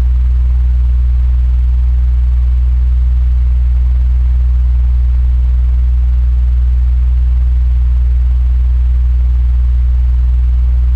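Electric fan running steadily: a strong low hum with an even airy hiss over it, unchanging throughout.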